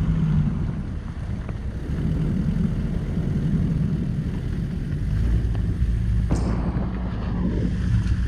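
Jeep Liberty KJ driving off-road: a steady low rumble of engine and tyres, with a few light knocks and a brief swish about six seconds in.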